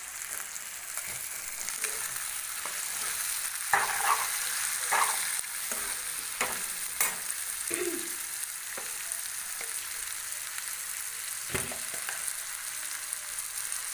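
Broiler chicken pieces with onion and spices sizzling in a kadai while a steel ladle stirs them, with a few sharp clacks and scrapes of the ladle against the pan, the loudest about four to five seconds in and another near the end.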